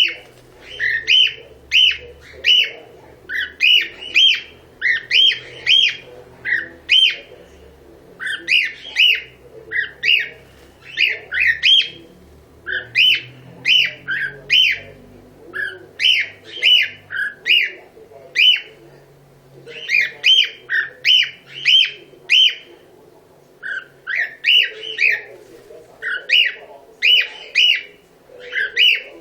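Pet cockatiel calling over and over: short, loud chirping calls in quick runs of three to six, with brief pauses between runs.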